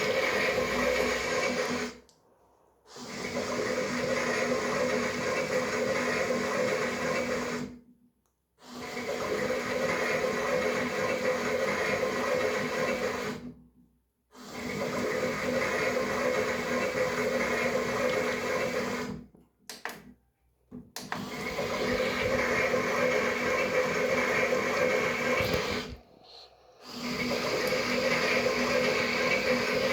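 Toy washing machine's small electric motor whirring as it turns the drum, in runs of about five seconds broken by short pauses.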